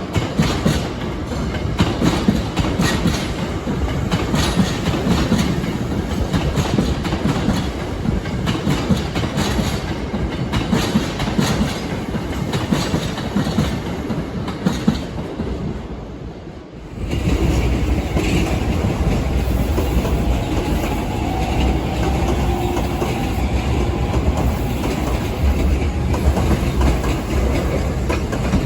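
Hankyu electric trains passing over a level crossing, steel wheels clattering over the rail joints with a heavy rumble. The sound dips briefly about 17 seconds in, then the rumble comes back just as loud.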